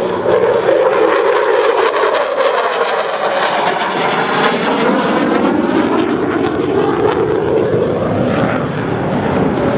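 F-16C fighter jet flying past in a display, its jet engine loud and continuous, the roar sweeping in tone as the aircraft moves across the sky.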